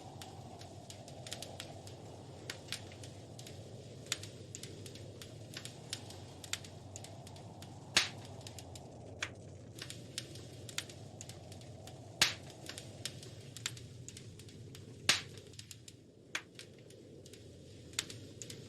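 Wood fire crackling in a fireplace: irregular small pops and snaps over a steady low rush of burning, with three louder snaps about eight, twelve and fifteen seconds in.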